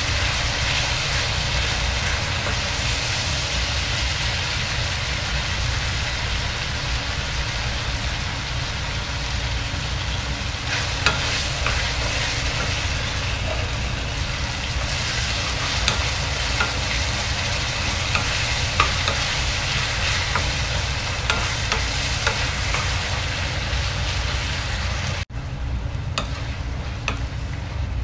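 Sliced tomatoes and onions sizzling in hot oil in a wok, stirred with a wooden spatula that now and then taps and scrapes against the pan.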